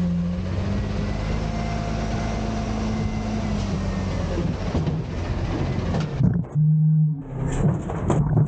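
Autocar garbage truck's engine held at raised revs with a dense hiss of hydraulics and machinery for about six seconds while dumping a bin, then dropping back toward idle, with a few knocks near the end.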